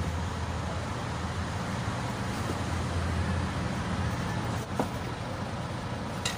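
Mitsubishi Canter truck's diesel engine idling steadily as a low hum, with a single light click about five seconds in.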